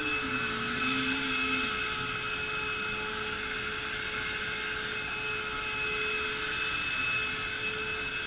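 Vacuum cleaner running steadily, a constant motor whine over airflow hiss, with a lower hum wavering briefly in the first couple of seconds.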